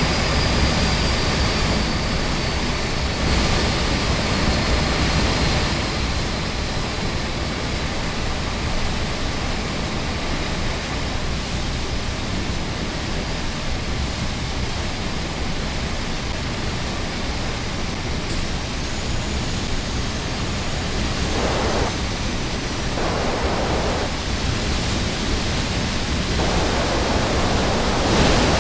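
Steady rushing road noise from a vehicle under way, tyres and engine blending into an even hiss and rumble with no distinct events.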